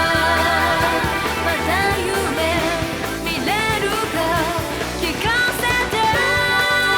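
Anime opening theme song: a vocalist sings held, wavering notes over pop-rock band backing.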